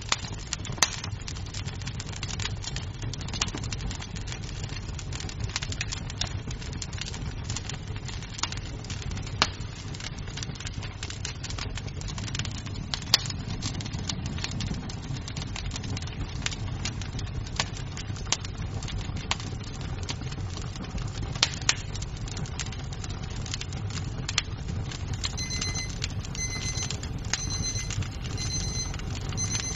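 Wood fire crackling in a fireplace: a steady low rumble and hiss with frequent sharp pops and snaps. Near the end, a run of repeating high electronic beeps starts over it.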